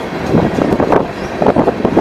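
Freight train cars rolling past over a road crossing, their wheels knocking in irregular clusters.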